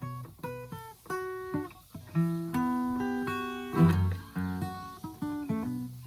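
Background music: acoustic guitar, plucked notes and strummed chords, with a loud strum about four seconds in.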